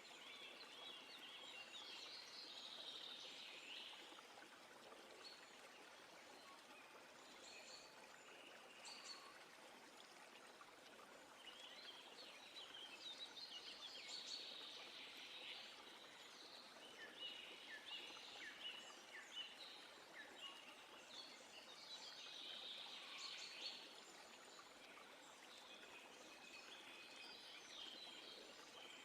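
Birds singing in short, repeated high phrases, several times through the stretch, over a faint steady background hiss.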